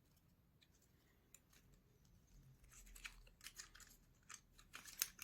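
Faint clicks and scrapes of thin basswood model-kit parts being handled and pushed into their slots by hand. They come mostly in the second half and end in a sharper click.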